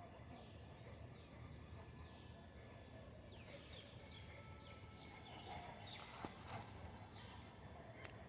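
Faint chirping of small birds, many quick high chirps scattered over a steady outdoor hum, busiest in the second half, with a couple of soft clicks.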